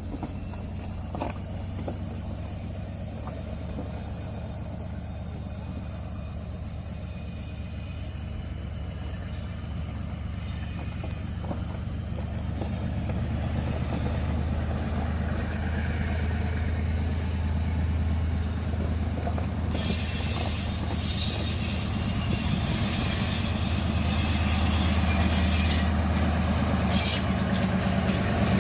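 D19E diesel-electric locomotive's engine running steadily, growing louder as the train draws nearer. About twenty seconds in, the rattle of wheels on the rails joins it, with a thin high wheel squeal.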